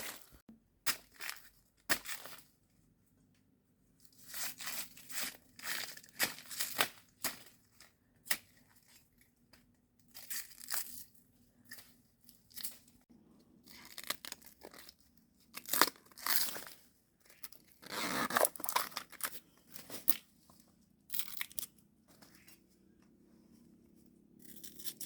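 A series of short, irregular tearing and crunching noises with brief pauses between them.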